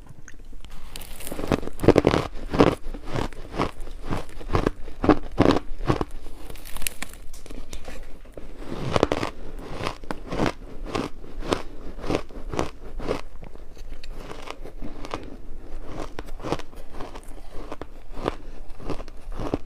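Ice being bitten and chewed close to the microphone: a steady run of crisp crunches, about two to three a second, with a couple of louder bites.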